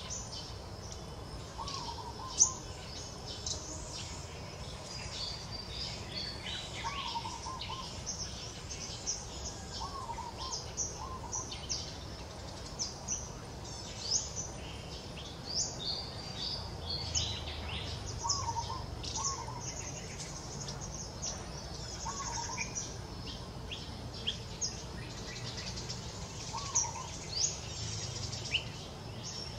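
Many birds chirping and calling at once in dense, overlapping short high chirps and trills, with a lower short warbling call repeating every few seconds, over a faint low background hum.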